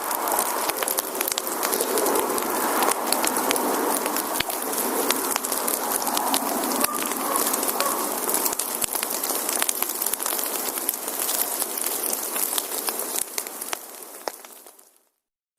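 Firewood burning in a campfire, crackling and popping over a steady hiss. It fades out near the end.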